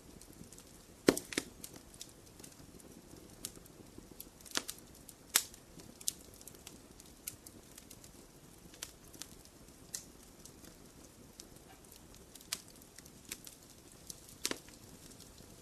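Wood fire crackling in a fireplace: irregular sharp pops and snaps over a low steady hiss, with a loud pop about a second in and another about five seconds in.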